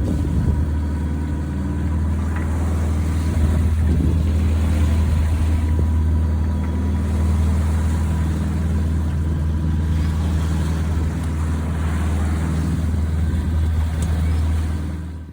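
A sailing yacht's engine running steadily under way, a loud, even low hum with no change in speed.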